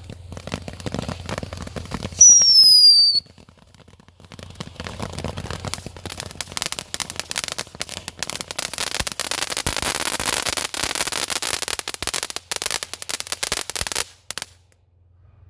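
Consumer ground firework going off: a loud whistle falling in pitch for about a second, then about ten seconds of dense crackling and hissing that stops suddenly near the end.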